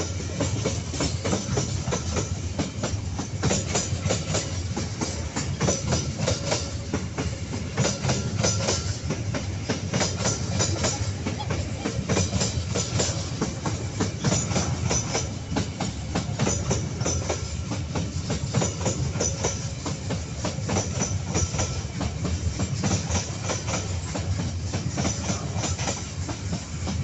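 KAI Babaranjang long coal train rolling past, its wagon wheels clacking over the rail joints in a steady stream over a low rumble.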